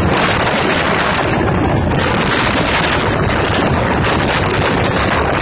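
Steady wind noise on the microphone at the open door of a moving passenger train coach, mixed with the train's running noise on the track.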